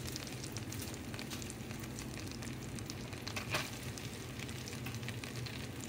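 Crab burgers frying gently in butter and oil in a stainless steel pan on low heat: a steady soft sizzle full of fine crackling pops, with a slightly louder crackle about three and a half seconds in.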